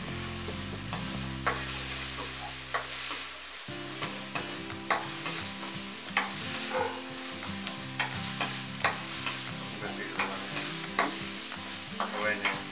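Chopped aromatics and chilli powder sizzling in a hot steel wok, stirred with a metal spoon that scrapes the pan about once a second.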